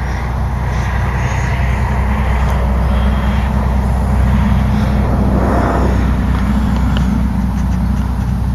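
Motorcycle engine running at a steady pitch, with a brief swell of rushing noise about five and a half seconds in.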